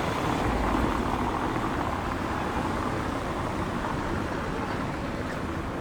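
A motor vehicle passing on a street, loudest about a second in and then easing back into steady traffic noise.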